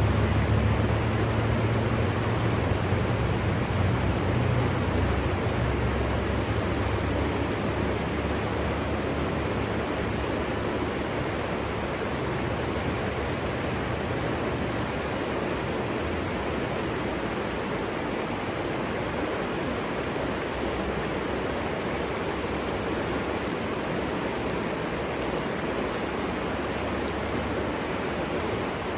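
River water flowing in a steady rush. A low rumble underneath fades out over the first several seconds.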